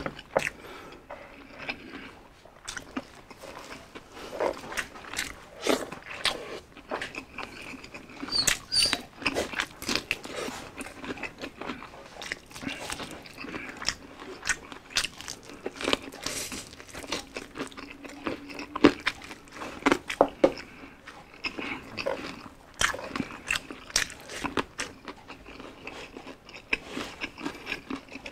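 Close-up eating sounds: crispy fried chicken and rice being bitten and chewed, with irregular crunches and mouth clicks.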